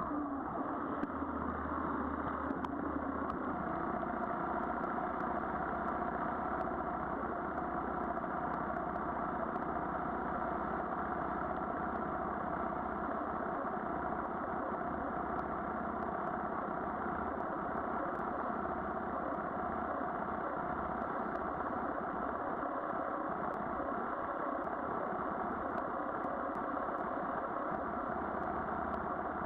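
Yamaha Virago XV400's air-cooled V-twin engine idling steadily, its pitch settling down within the first second.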